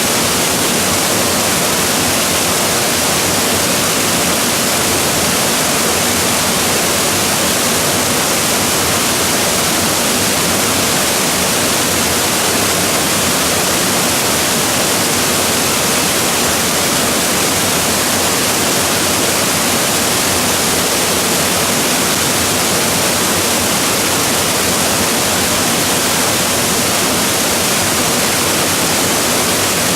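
Waterfall: a loud, steady rush of falling water, an even hiss weighted toward the high end, without a break.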